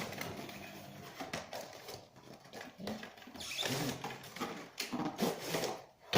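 A cardboard product box being opened and its packaging handled: scattered clicks and knocks with rustling and scraping of cardboard and paper.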